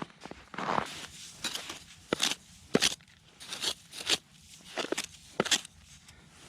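Footsteps crunching in snow on lake ice, about half a dozen separate crunches, unevenly spaced.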